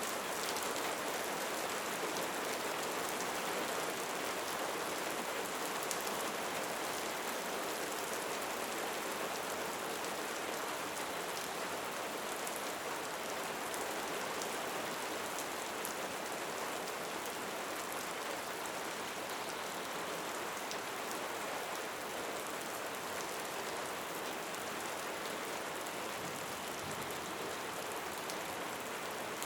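Steady rain falling and pattering on surfaces, an even hiss of many fine drops. A faint low rumble comes in near the end.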